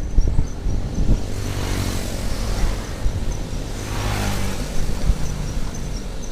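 Motor vehicle traffic passing on the road, a steady engine note with a rushing swell of noise twice as vehicles go by.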